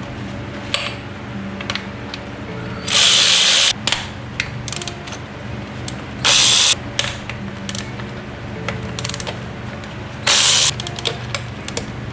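A ratchet wrench with an E10 Torx socket clicking as it backs out the valve cover bolts on a Mercedes E55 AMG's V8. It comes in three short loud spells with lighter clicks between them.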